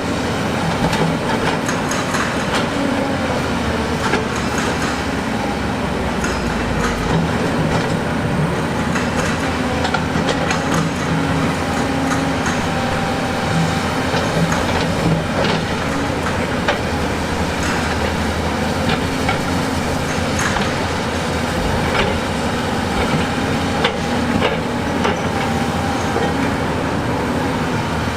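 Heavy tracked construction machine's diesel engine running steadily, with steel tracks clanking and frequent knocks and rattles of metal and rock.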